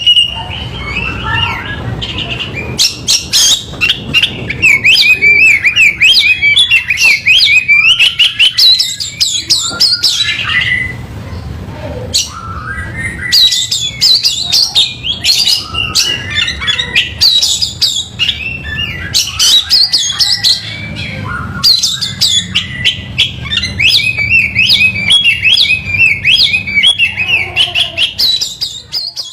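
Oriental magpie-robin (kacer) song: long runs of rapid, varied chattering and whistled notes with sharp clicks, pausing briefly twice. A steady low hum sits underneath.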